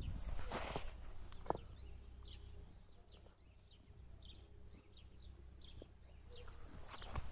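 Birds chirping in many short, falling calls over a low steady rumble, with one sharp click about a second and a half in.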